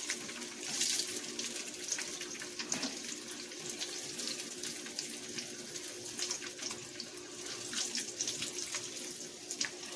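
Chicken liver frying in olive oil in a pan: a steady sizzle with many small pops and crackles, over a faint steady hum.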